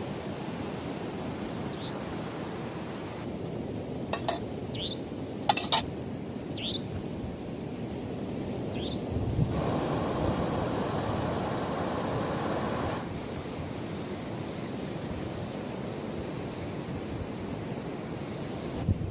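Sea waves washing onto a beach with wind, a steady rushing that swells for a few seconds midway. A few short, high rising chirps and a couple of sharp clicks sound over it in the first half.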